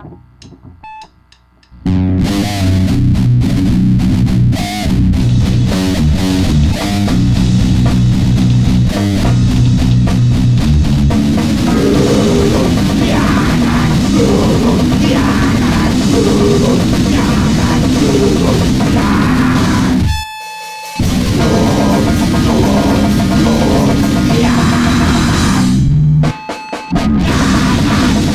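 Loud, distorted grind/noise band playing, with guitar and drum kit, crashing in about two seconds in after a few faint clicks. The playing stops briefly twice near the end, leaving a single ringing tone, then comes back in.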